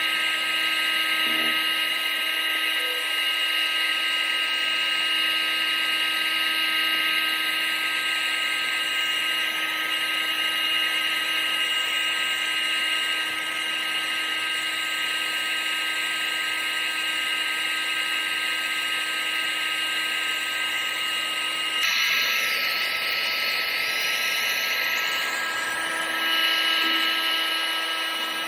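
Vacuum cleaner motor running continuously, a steady whining hum over airflow hiss. About 22 seconds in the tone shifts slightly.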